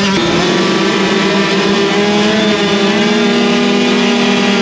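Small 65 cc two-stroke dirt bike engine running at high revs, held at a steady buzzing note that rises slightly about two seconds in.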